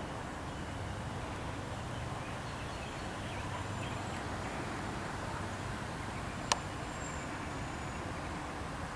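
Steady outdoor background noise with a few faint, brief high chirps, and a single sharp click about six and a half seconds in.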